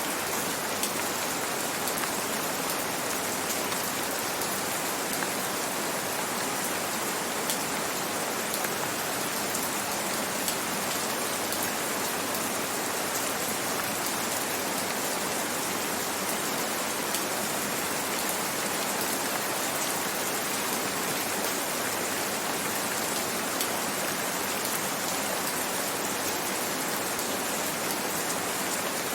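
Gentle rain falling steadily: an even hiss with a few faint drop ticks scattered through it.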